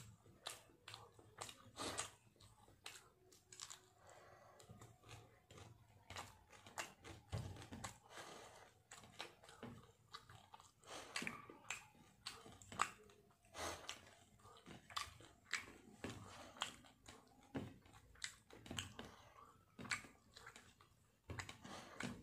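Close mouth sounds of a person chewing a mouthful of rice and fried fish, with irregular soft clicks and squishes as fingers mix rice on a plate.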